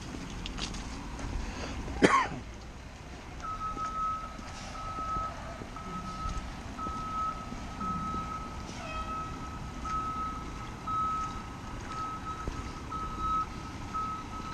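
Garbage truck's reversing alarm beeping steadily at about two beeps a second, starting a few seconds in, over the low rumble of the truck. A single loud bang comes about two seconds in.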